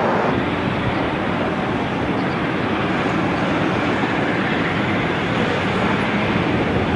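Jet airliner engines running with a loud, steady noise.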